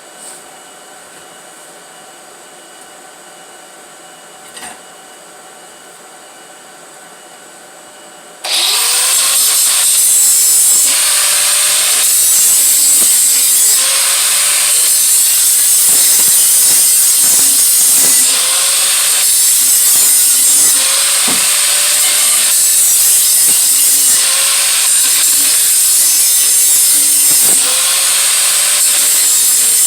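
A low steady hum, then about eight seconds in a power tool spins up with a rising whine and runs loud on the exhaust head pipe, its pitch sagging and recovering every couple of seconds as it bears on and lifts off the metal, cleaning up the pipe joint.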